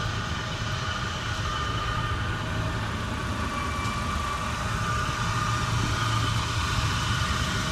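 Jeep engine running steadily under load as it tows the old boat hull, with a continuous rough rumble of the hull dragging over the ground.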